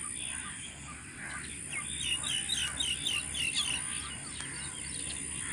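Birds chirping over open flooded fields, with a quick run of short, falling chirps in the middle and a faint steady high tone underneath.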